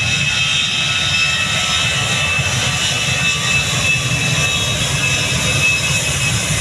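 Airbus A320-214's CFM56-5B turbofan engines running loud, with a steady high whine over a constant low rumble.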